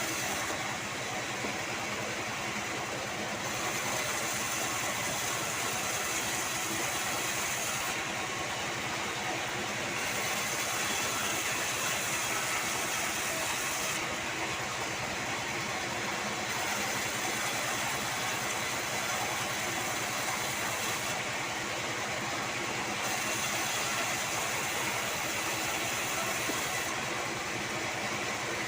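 Band sawmill running, sawing sengon (albizia) timber. Its steady noise carries a high hiss that drops away for two or three seconds about every six seconds.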